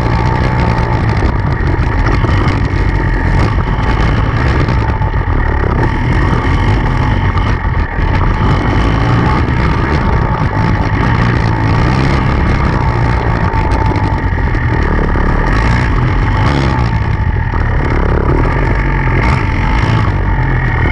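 Enduro dirt bike engine running continuously under load, its pitch shifting a little with the throttle.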